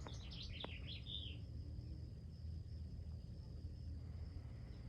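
Small birds chirping in quick short notes for about the first second, then stopping. Under them a thin steady high tone and a faint low rumble carry on throughout.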